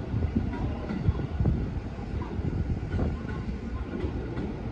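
Electric train rumbling at a station platform, with low, uneven thumps of wind gusting on the microphone.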